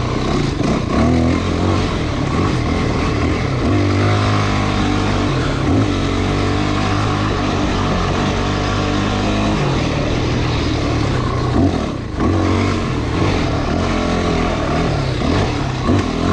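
Dirt bike engine running under changing throttle, its pitch rising and falling as the rider accelerates and eases off, with a brief dip about twelve seconds in.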